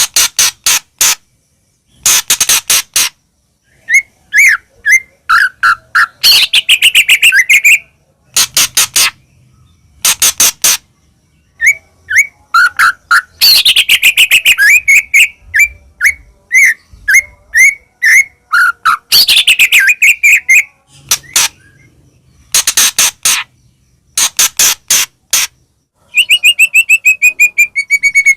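White-rumped shama (murai batu) singing hard: bursts of rapid sharp notes and clicks broken by short pauses, mixed with phrases that slide down in pitch.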